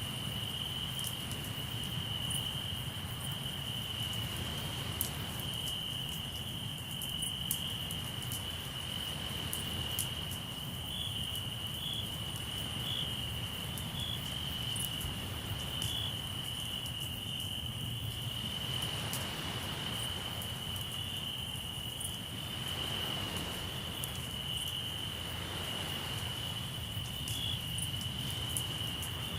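Crickets trilling in one steady, unbroken high note, with the sharp scattered pops of a crackling campfire over it. A low, steady wash of sea surf underneath swells a few times in the second half.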